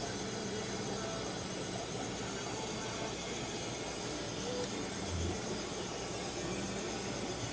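Steady hiss and hum of aquarium filters and air pumps running among the fish tanks, with a brief low hum about five seconds in.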